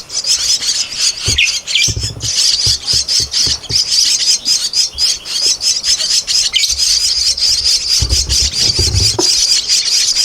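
Javan myna nestlings begging: a continuous, rapid, harsh chattering, with scattered low thumps.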